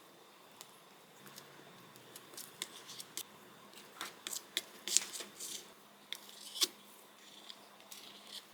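An irregular series of light clicks, snips and short scrapes from small kitchen tools being handled, busiest and loudest in the middle stretch, with one sharp click near the end of that stretch.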